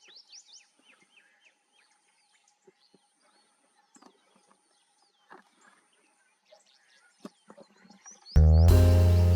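Wild birds chirping, a quick cluster of short high calls at first and then only scattered calls. Loud instrumental music cuts in suddenly near the end.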